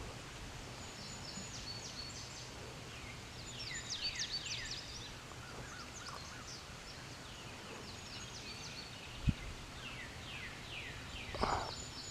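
Small songbirds chirping and whistling in quick falling notes, busiest about four seconds in, with a single low thump about nine seconds in.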